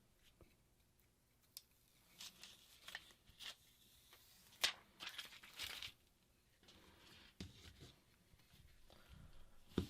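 Plastic backing film being peeled off an adhesive sheet for a phone screen repair: a series of short, faint peels and rustles, the sharpest about halfway through.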